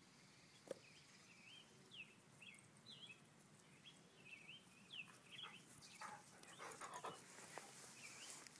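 Faint birdsong: a small bird repeating short chirping notes, a few each second, with a click about a second in and some rustling near the end.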